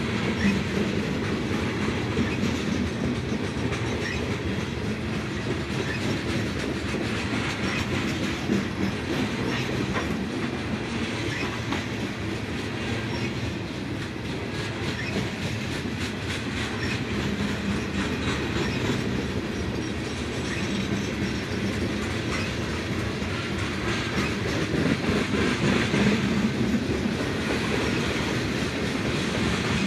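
Freight train of gondola cars rolling past steadily, the wheels clicking over the rail joints.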